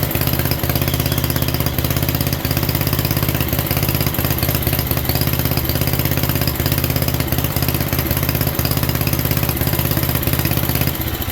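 Single-cylinder 7 hp Briggs & Stratton engine of a 1967 Unico garden tractor running steadily with an even rapid firing beat. Right at the end it begins to slow and die away.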